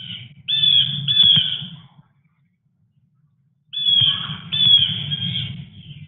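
A bird giving harsh calls in two bouts. The first comes at the start and the second from about four seconds in, each bout a few short notes that dip slightly in pitch.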